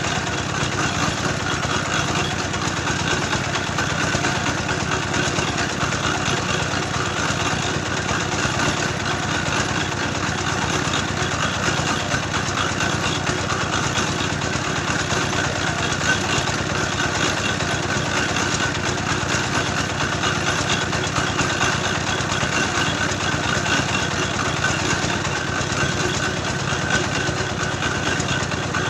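Engine-driven clay grinding mill running steadily, processing soil into dough for red bricks.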